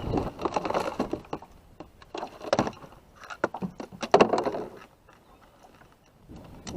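Scattered knocks, clicks and rattles of gear and hull being handled in a kayak. The loudest clatter comes about four seconds in.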